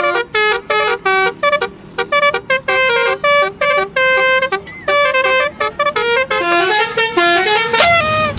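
Telolet bus horn playing a quick tune: a run of short honked notes of changing pitch, ending in a longer held note.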